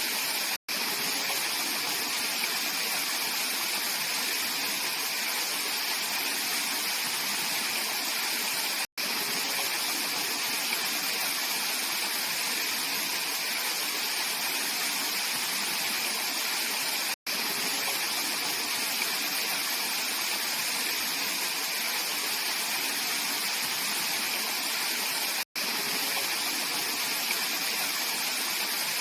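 Clear mountain stream rushing steadily over rocks in an even, continuous wash. The sound cuts out for an instant about every eight seconds, four times.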